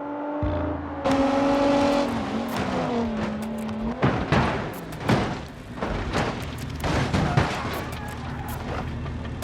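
Dashcam car crash: a steady pitched tone that sags in pitch a couple of seconds in, then a run of sharp, loud impacts and crunches, the last big hit near the end.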